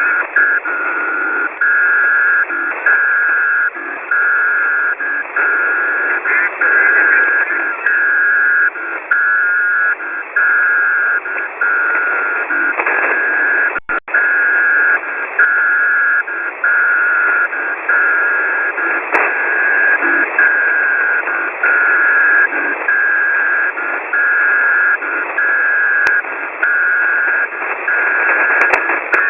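Shortwave radio reception through a WebSDR receiver: a single high tone keyed on and off in regular pulses, roughly one a second, over steady hissing static in a narrow, telephone-like band. This is a keyed carrier signal of the Morse-code (CW) kind. The audio drops out for an instant about halfway through.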